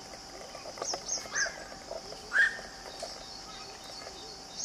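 Wild birds calling: a short call that rises and then falls, repeated a few times and loudest about two seconds in, and quick high chirps about a second in, over a steady high background drone.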